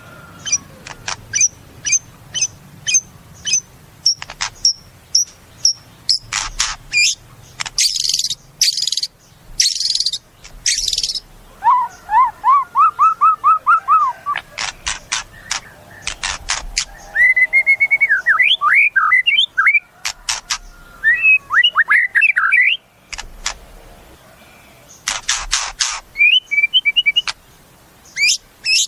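White-rumped shama (murai batu) singing a long, varied song: runs of quick sharp chips, fast trills, and slurred, rising whistled phrases, with short pauses between bouts.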